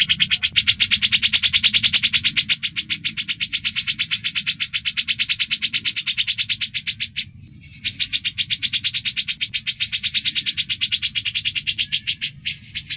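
Recorded bird call used as master song for training cendet: a fast, even trill of about ten notes a second, broken by two short pauses.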